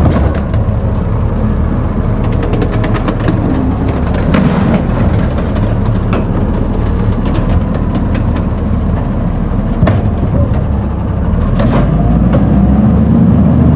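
Garbage truck engine running heavily, with scattered clanks and rattles, then revving up near the end.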